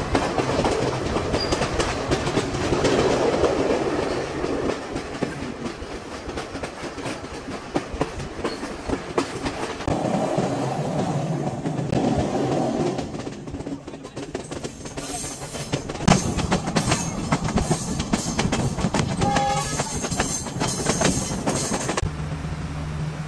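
Passenger train running, its wheels clattering over the rail joints in a steady clickety-clack, heard from inside a carriage with the windows open.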